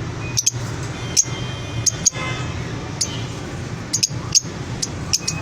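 Small caged birds chirping: short, sharp, high calls come every half second to a second over a steady low hum.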